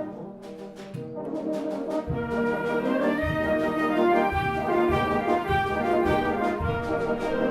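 Concert wind band playing, sight-reading, with brass to the fore. The sound is thin for the first second or so, then builds as more instruments join, and low brass comes in about two seconds in.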